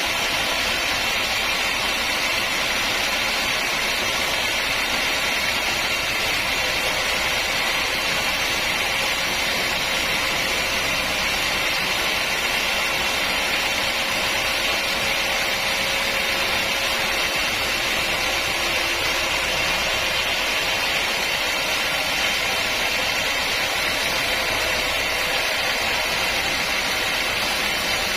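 Sawmill machinery running steadily: a constant mechanical whir and hiss that does not change.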